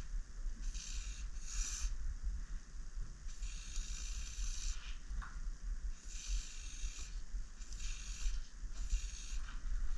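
Aerosol spray-paint can hissing in six separate bursts, each about half a second to a second and a half long, the longest a few seconds in, over a steady low rumble.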